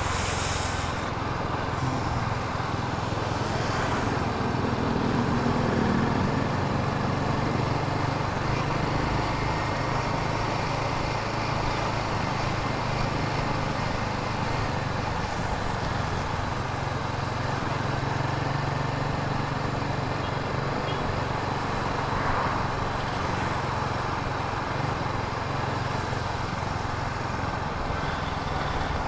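Royal Enfield Himalayan 450 motorcycle ridden at low speed in city traffic: its single-cylinder engine running steadily under road and traffic noise.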